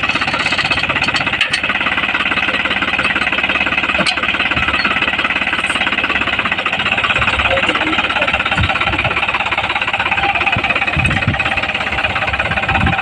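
Tractor rear-mounted post driver hammering rapidly and continuously, with the tractor's engine running underneath.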